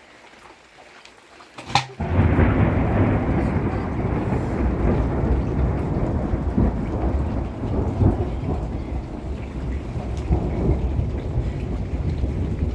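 Heavy rain with a low rumble of thunder, starting abruptly about two seconds in after a sharp click and then going on steadily.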